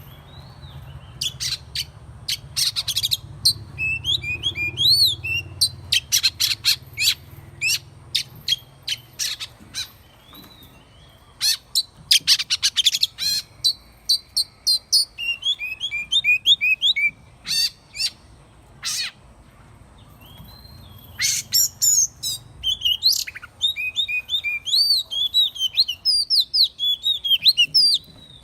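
Oriental magpie-robin singing: a varied song of clear whistled notes rising and falling, mixed with rapid sharp clicking notes, delivered in phrases broken by short pauses.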